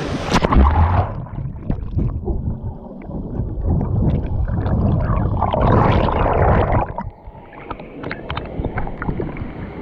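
Water splashing and gurgling close to the microphone, uneven, with low thumps and a louder surge about six seconds in.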